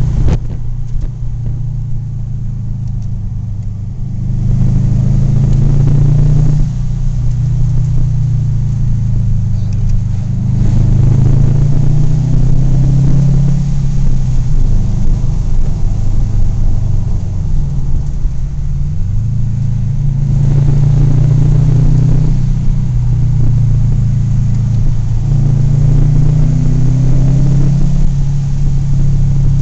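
Subaru WRX STI's turbocharged flat-four engine heard from inside the cabin as the car is driven. The engine note swells several times under acceleration and eases off between, with one brief dip and rise in pitch partway through.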